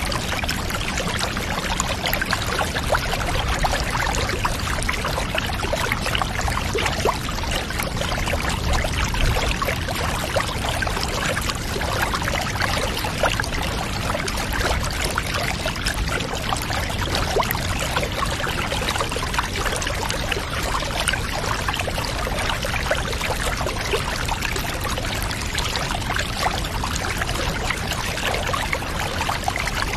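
Water trickling and pouring steadily, with a dense patter of small splashes that never lets up.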